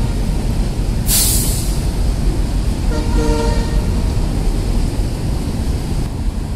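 Indian Railways passenger coaches rolling past along the platform with a steady low rumble. A sharp hiss of air comes about a second in, and a short horn toot about three seconds in.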